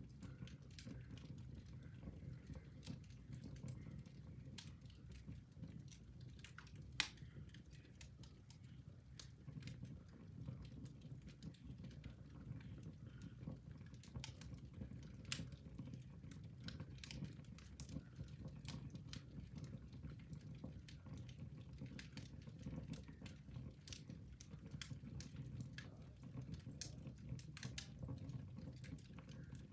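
Wood fire in a fireplace crackling quietly: scattered sharp snaps and pops over a low steady rumble of the flames, with one louder pop about seven seconds in.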